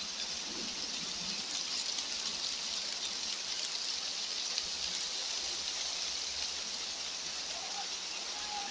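Steady mountain outdoor ambience: an even high hiss with faint scattered ticks, in the manner of wind, drizzle or running water.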